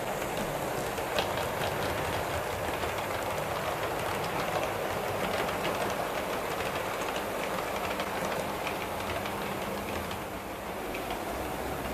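A train running along the track, its wheels clicking over the rail joints with a steady rumble.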